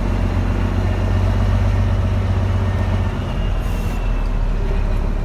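Dump truck's diesel engine running under way, a steady low drone that eases off about three seconds in. A short hiss of air follows just before four seconds in.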